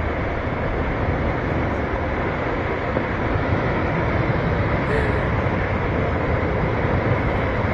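Flash floodwater rushing, a steady, dense noise.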